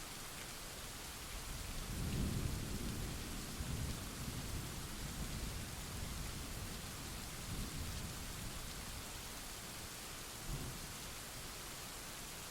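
Steady rain hissing, with a roll of thunder that builds about a second and a half in, is loudest around two seconds and rumbles on for several seconds before fading, followed by a brief low bump near the end.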